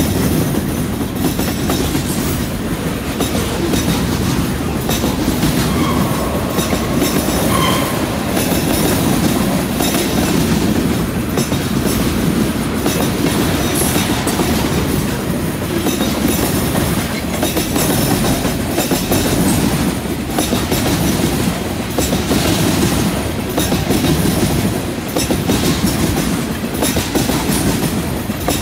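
Freight cars rolling steadily past: boxcars, a centerbeam lumber flatcar and tank cars, their steel wheels rumbling and clacking over the rail joints. A brief faint wheel squeal comes about six to eight seconds in.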